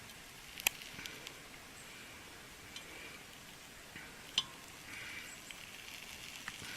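A few sharp metal clinks of a knife or utensil against the camp oven, loudest about a second in and again past the middle, over faint sizzling of the roast cooking in the camp oven.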